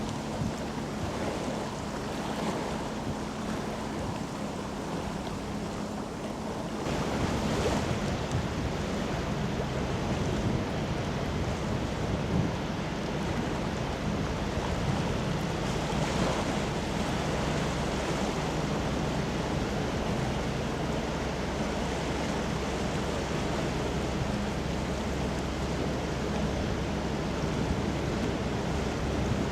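Wind buffeting the microphone over river water, with a faint steady low hum from a passing container ship's engine. The noise gets louder and fuller about seven seconds in.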